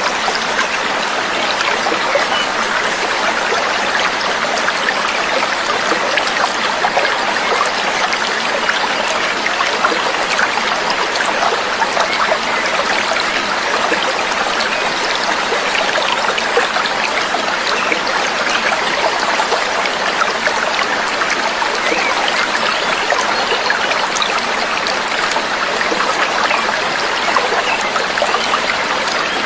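Trickling, babbling water like a small stream, running steadily.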